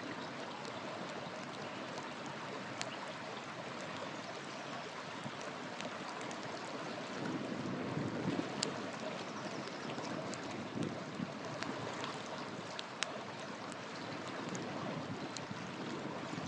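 A river flowing steadily, with a campfire's firewood crackling in sharp scattered pops over it; the water swells louder for a few seconds about halfway through.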